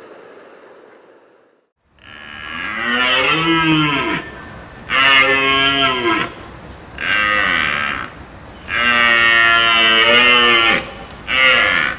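A large animal calling five times in a row, starting about two seconds in: long, drawn-out calls that bend down in pitch at their ends, the last one brief.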